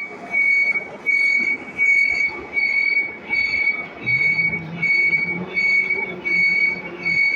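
Metal-cutting lathe with the tool squealing against the turning workpiece: a high-pitched squeal repeating in regular pulses about every three-quarters of a second. A low hum joins about halfway through.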